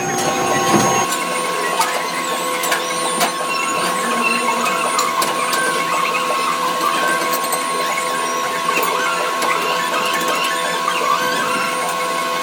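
Workshop machinery running steadily, a constant hum of tones with scattered sharp clicks and knocks of metal work. The sound changes about a second in.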